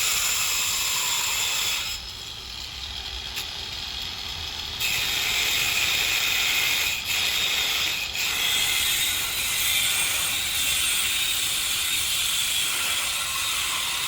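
Electric pole-mounted angle grinder running and grinding, a steady high-pitched whine with gritty noise. It eases off for a few seconds about two seconds in, then comes back and dips briefly twice.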